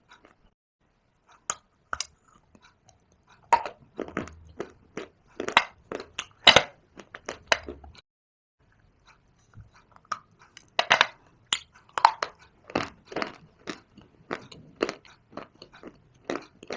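A person biting and chewing dry pieces of shale stone clay close to the microphone: sharp, brittle crunches in quick runs, with a short pause a little past the middle before the crunching starts again.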